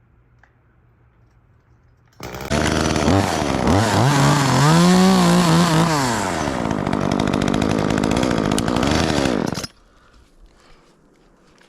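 Chainsaw starting up about two seconds in, revving up and holding high, then dropping to a lower steady running pitch before it stops suddenly near the end.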